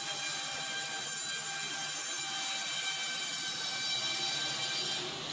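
Sawmill machinery running with a steady, high-pitched whine made of many even tones over a noisy rush, changing abruptly near the end.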